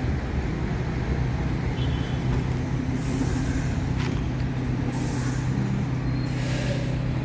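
New York City subway train on the (1) line, with a steady low electrical hum over running noise and three short hisses of air.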